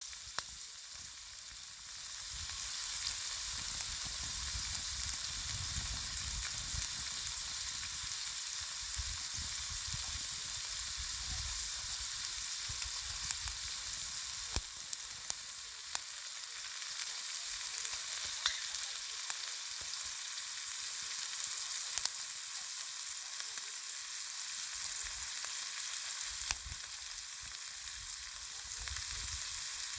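Garlic shrimp frying in oil in a pan over a campfire: a steady sizzle that gets louder about two seconds in, with occasional sharp pops.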